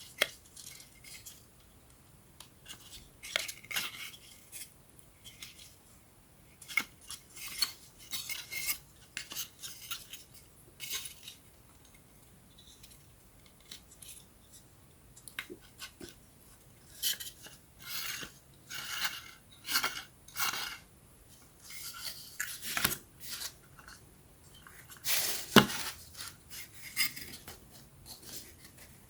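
Thin wooden puzzle pieces being handled and fitted together: scattered clicks, taps and short scrapes with quiet gaps between, and one sharper knock near the end.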